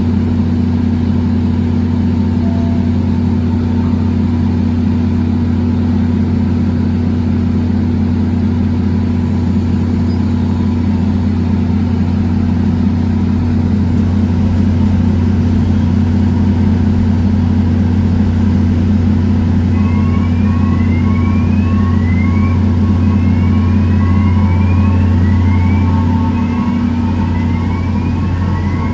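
Train at a station, running with a loud, steady low hum. In the last third, short rising whines repeat about once a second.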